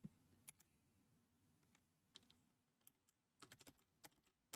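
Near silence with a few faint, scattered clicks, a small cluster of them about three and a half seconds in.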